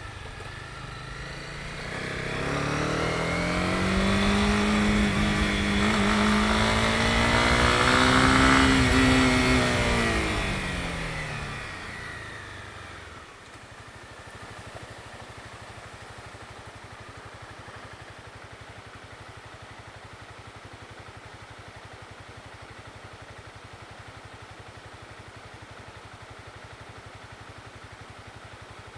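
Honda CB250R's single-cylinder engine pulling up through the revs, then easing off and slowing, its pitch falling, until about thirteen seconds in the rush of riding stops abruptly. It then settles into a steady, quieter idle.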